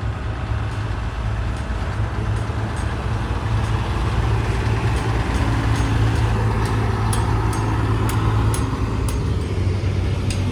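Classic car engine with a deep, steady exhaust rumble as the car drives slowly past; it grows louder to a peak about six to eight seconds in, then eases off.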